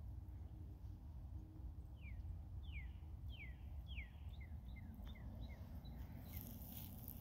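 A songbird calling: a series of quick downward-slurred whistled notes starting about two seconds in, the first few longer and clearer, then shorter, faster ones. A low, steady rumble sits underneath.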